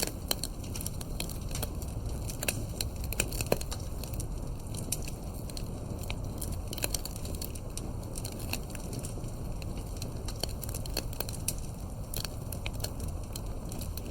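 Wood fire crackling, with many irregular sharp pops and snaps, a few louder ones, over a low steady rumble.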